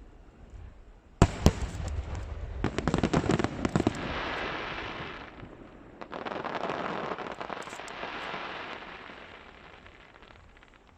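Aerial fireworks: two sharp bangs a little over a second in, then a quick volley of many small pops, followed by two long waves of fizzing crackle that die away.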